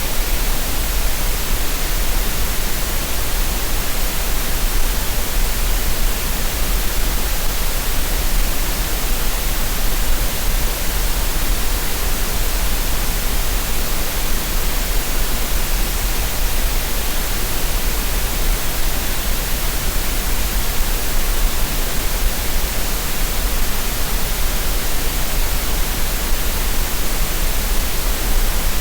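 Steady synthetic 'green noise', an even hiss with a deep low rumble beneath it, unchanging throughout.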